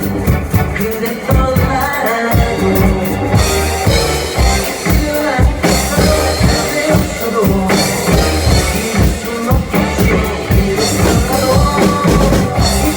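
Live band music led by a drum kit keeping a steady beat under bass and melody, an instrumental passage with no vocals.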